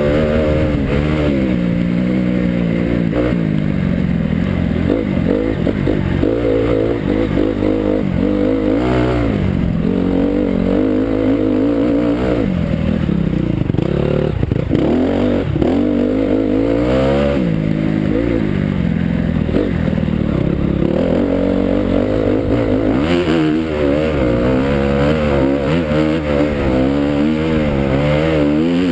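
Motocross bike engine revving hard and continuously, its pitch rising and falling every second or two as the throttle is opened and shut and gears are changed through the track's sections.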